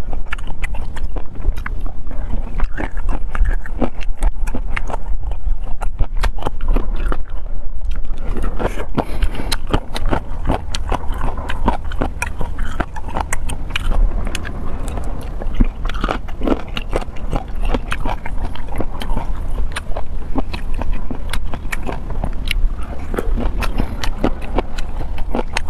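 Close-miked chewing and biting on chicken feet: a steady run of small wet clicks and crunches. A steady low hum runs underneath.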